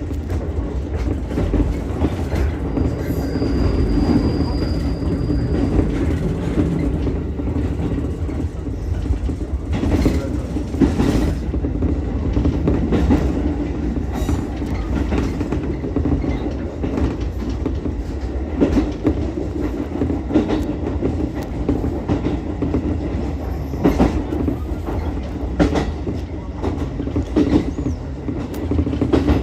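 Ichibata Electric Railway 7000-series electric railcar running along the line: a steady rumble of the car and wheels, with scattered clacks as the wheels pass rail joints. A thin high whine sounds for a few seconds early on.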